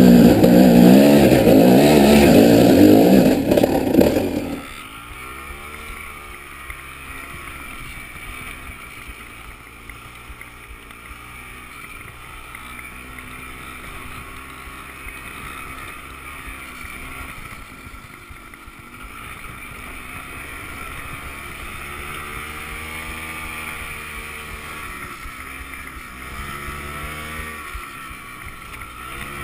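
Off-road engine running with its pitch rising and falling with the throttle, loud at first; about four and a half seconds in the level drops sharply and the engine carries on quieter.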